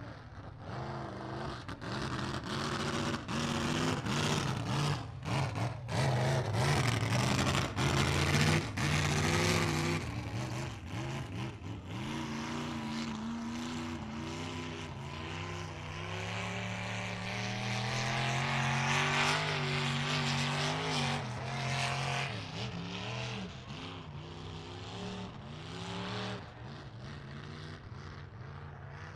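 Mud truck engine revving hard in a mud pit, its pitch rising and falling again and again, with frequent sharp cracks over roughly the first ten seconds.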